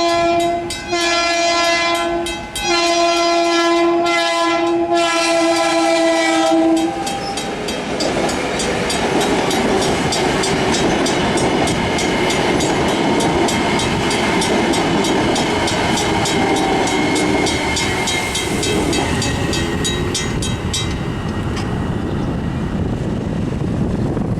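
Long Island Rail Road train's multi-chime air horn blowing for a grade crossing: two short breaks in the first few seconds, then a long blast that ends about seven seconds in. After that the train passes with a steady rush of wheel and rail noise.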